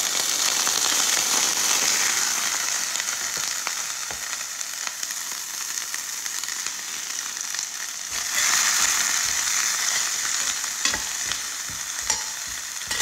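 Sliced shallots, garlic and galangal sizzling in hot oil in a stainless steel pan, the sizzle flaring up again about eight seconds in. A few clicks of a metal spoon against the pan near the end.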